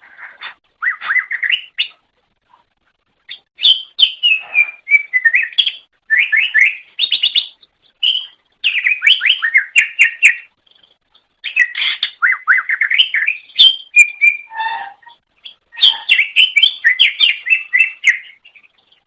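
Cucak ijo (green leafbird) singing: phrases of rapid, varied chirps and whistled notes, each lasting a second or two, with short pauses between them.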